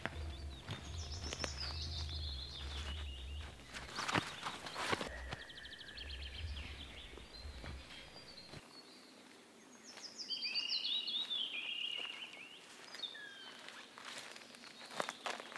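A songbird singing two descending trilled phrases, with a few sharp clicks between them.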